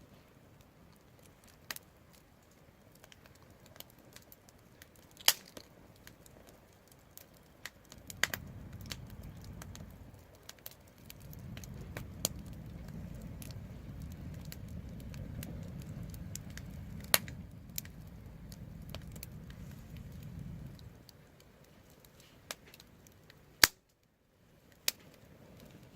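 Wood fire crackling, with scattered sharp pops and snaps, several of them loud. A low steady rumble runs under the crackling for about ten seconds in the middle. Near the end a loud snap is followed by a brief drop to silence.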